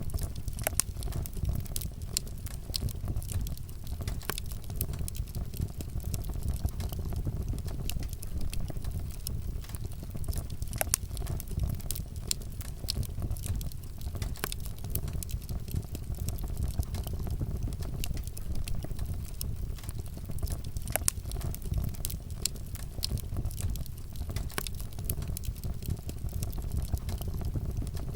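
Wood fire burning with a steady low rumble and frequent sharp crackles and pops of burning wood.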